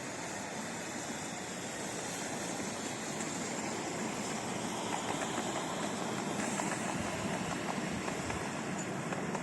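A train running nearby: a steady rumble and hiss that grows slowly louder.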